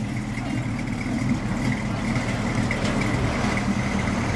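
A car engine idling steadily, with a thin, steady high-pitched tone running alongside it.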